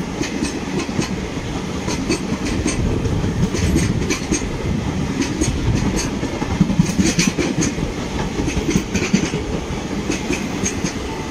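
Indian Railways express coaches rolling past at speed: a steady rumble of wheels on rail, with a clickety-clack group of clicks every second or two as each set of wheels crosses the rail joints.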